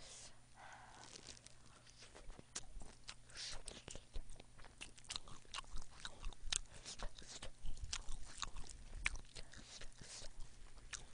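Close-miked chewing of spicy boneless chicken feet: many short, irregular mouth clicks.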